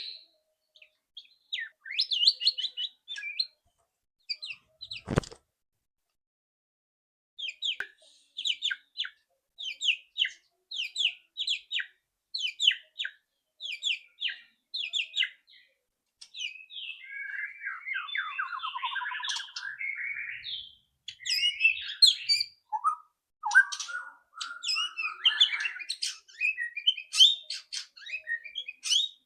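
White-rumped shama (murai batu) calling: a run of short, sharp chattering notes at about two a second, the loud ticking 'ketrekan' call used to lure another shama into singing. A warbled song phrase follows just past the middle, then a dense run of calls near the end. A single knock about five seconds in.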